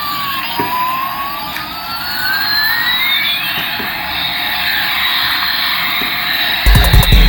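Electronic jet-engine sound effect from a battery-powered toy airliner: a steady whooshing hiss with a tone that slowly sweeps down and back up like a siren. Loud music with a beat comes in near the end.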